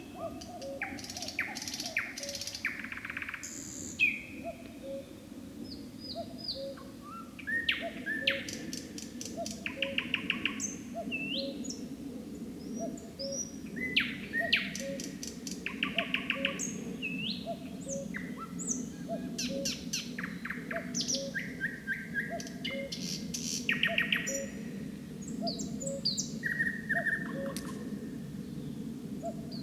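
Nightingale singing: varied phrases of fast rattling trills, clear whistled notes and short chirps, one after another with brief pauses. A short low note repeats steadily about twice a second underneath.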